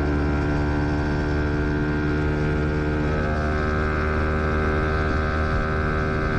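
Fantic XMF 125's single-cylinder four-stroke engine running at a steady, held engine speed, its pitch unchanging.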